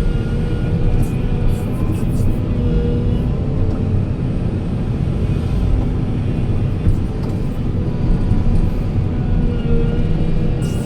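Diesel engine of heavy construction machinery running steadily with a low rumble, with short sharp clicks now and then.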